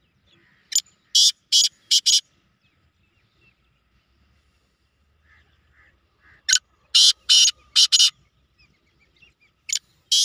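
Black francolin calling: a group of four harsh, scratchy notes about a second in, then a second group of five about six and a half seconds in, with a couple more near the end.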